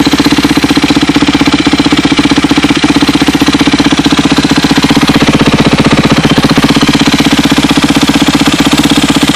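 2006 Yamaha YZ250F's single-cylinder four-stroke engine idling steadily with an even, rapid beat, warming up after a cold start.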